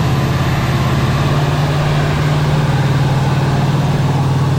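Heavy off-road trials truck's engine running loud and steady at constant revs.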